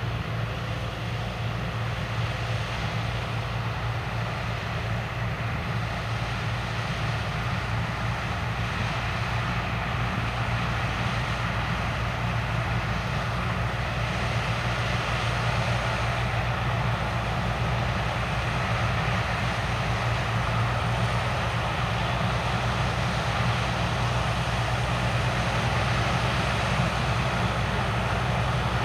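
Heavy diesel farm machinery running steadily, a deep even drone that grows slowly louder.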